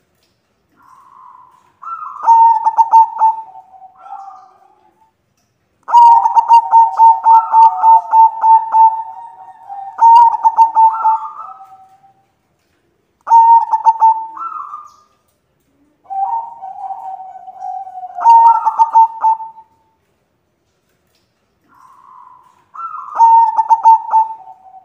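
White zebra doves cooing: about five bouts of rapid, staccato coos on a steady pitch, each bout a few seconds long with short gaps between. The longest bout runs about six seconds.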